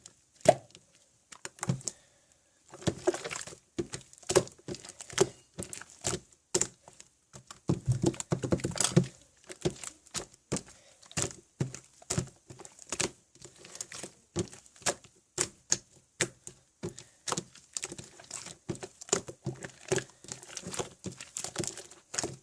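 Slime being pressed and squeezed by hand, giving rapid, irregular clicks and small pops that come in clusters, with a short pause about two seconds in.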